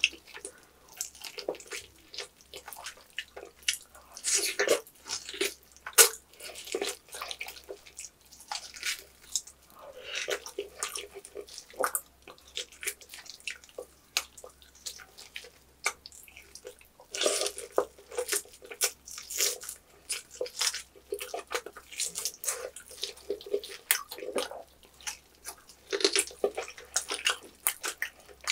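Wet chewing, smacking and biting as roast pork knuckle meat and skin are bitten off the bone and eaten, with irregular sticky clicks and the odd crunch.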